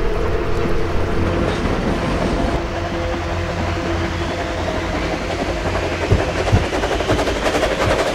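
Train running on the rails: a steady rumble and rattle of railcars, with a couple of heavy knocks about six seconds in.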